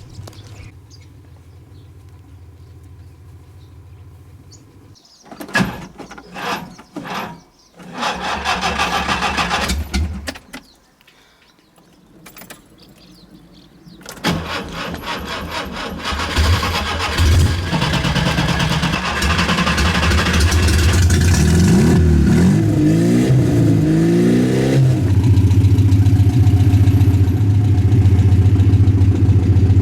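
Skoda 120's engine being cranked with the starter, a pause, then cranked again until it catches, revs up and down a few times, and settles into a steady idle near the end. A few knocks come shortly before the first cranking.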